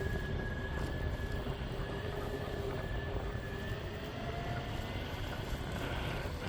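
Meepo Hurricane electric skateboard riding at speed: a steady whine from its electric motors over the low rumble of its honeycomb wheels on pavement, with the whine's pitch shifting slightly as speed changes.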